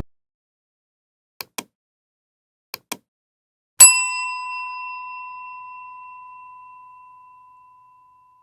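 Two pairs of faint short clicks, then a single bright bell-like ding about four seconds in that rings on and fades away over about four seconds.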